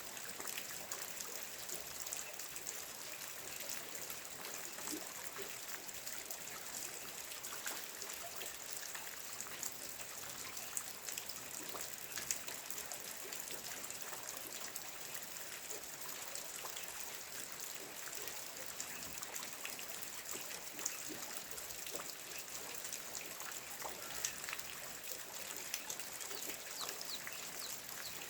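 Steady rain falling: a constant hiss scattered with many small drop ticks.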